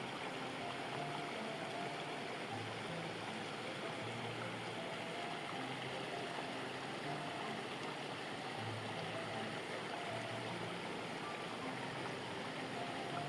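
Steady rushing of a flowing stream, an even wash of water noise with faint short tones now and then.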